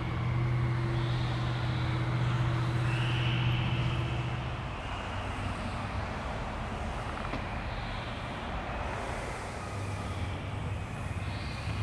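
Car driving: a steady low engine hum over road noise. The hum fades about five seconds in, leaving the road noise, and comes back near the end.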